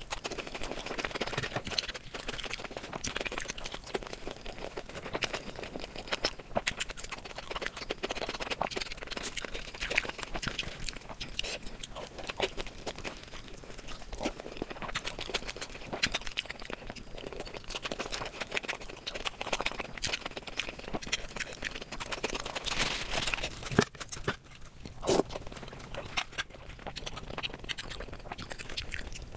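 Close-miked eating sounds: chewing and wet mouth noises with many small clicks and crackles, and a couple of sharper clicks a little over two-thirds through.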